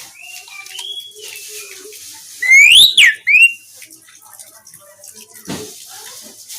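Javan pied starling (jalak suren) singing: soft, hissing chatter and squeaky notes, broken about two and a half seconds in by a loud whistle that rises and then falls, and a shorter whistle right after it.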